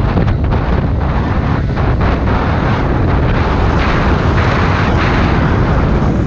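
Loud, steady wind rush buffeting the microphone of a camera on a moving motorbike, mixed with vehicle and road noise.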